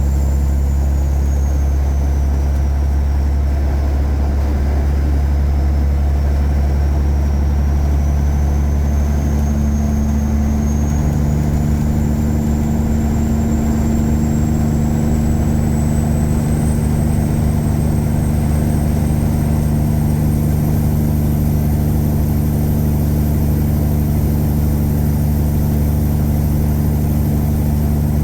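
Tuned Caterpillar 3406E inline-six diesel in a Freightliner Classic truck running steadily under way, a low drone whose note shifts a little about ten seconds in. A thin high whine dips and then slowly climbs.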